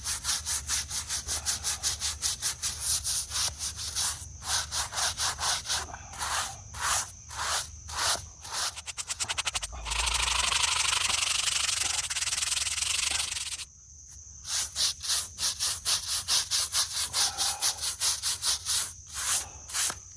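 Brush scrubbing a gravestone in quick back-and-forth strokes, about four a second. A steady hiss replaces the strokes for a few seconds near the middle, then the scrubbing resumes.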